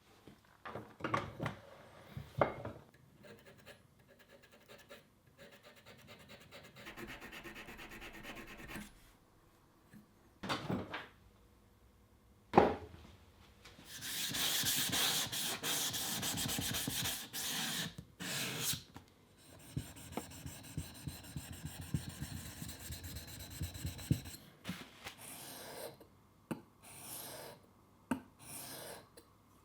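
Hand rubbing and filing on a small steel tool: irregular scraping strokes with a few sharp clicks, a longer steady scrape around the middle, then a run of quick repeated strokes.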